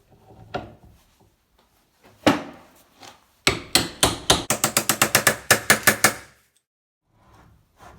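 Sharp metal knocks, then a fast run of clicks at about seven a second lasting nearly three seconds, from the restored bench vise or the tools being worked on it.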